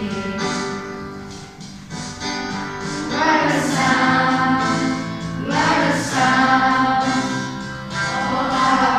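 Choir of voices singing a song over instrumental backing, with held notes; the music dips briefly early on, then swells twice.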